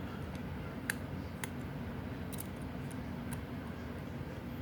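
Scattered light clicks and ticks of a precision screwdriver working the small internal screws of an iPhone.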